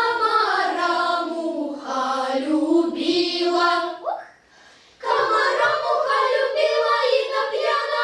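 Children's choir singing: one long sung phrase, a short break about four seconds in, then a second phrase.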